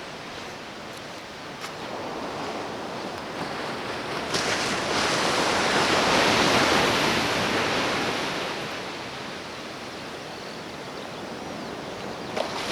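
Ocean surf on the shore, a steady wash of water with one wave breaking and swelling louder about halfway through, then falling away.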